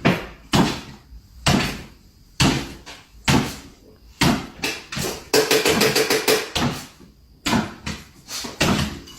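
A series of knocks or thumps, roughly one a second, each dying away quickly.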